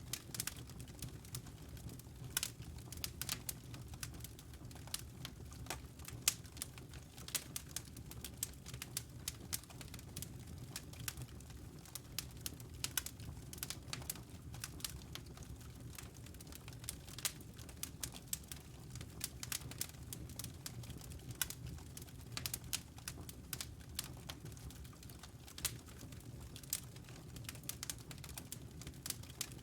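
Wood logs burning in a fireplace, crackling with many irregular sharp pops and snaps over a steady low rumble.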